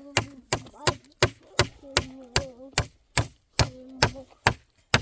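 Steady, rapid chopping, about three sharp strokes a second, with a wavering voice-like tone sounding between many of the strokes.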